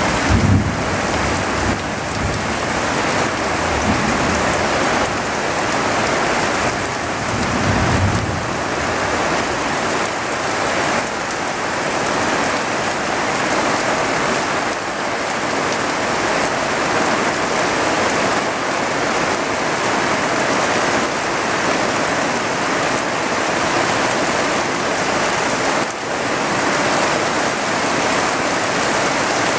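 Heavy wet-season downpour, a dense steady hiss of rain pouring down. There are a couple of brief low rumbles, one near the start and one about eight seconds in.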